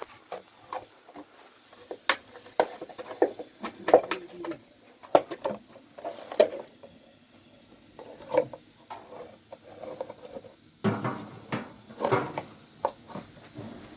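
Irregular knocks, taps and clatter of objects being handled, with a denser run of clattering about eleven seconds in.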